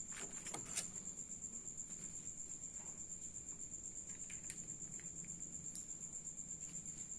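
A cricket chirping steadily in a fast, even pulse, with a couple of soft clicks in the first second.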